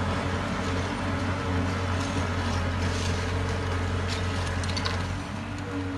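Heavy diesel construction machine engine running steadily as a low drone, with faint light clicks and rattles over it.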